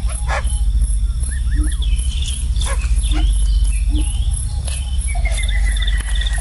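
Assorted short bird chirps and calls with a long, slightly falling whistle near the end, over a steady low rumble and a faint, evenly spaced high insect ticking.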